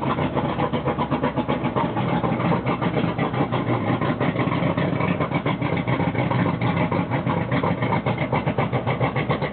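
Suzuki DT225 two-stroke V6 outboard idling steadily with a fast, even exhaust pulse, its exhaust damped by a homemade muffler of pipe and inner tube.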